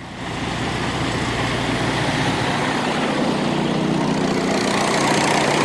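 Semi truck's diesel engine idling, heard up close: a steady rumble with hiss that gets louder just after the start and then holds.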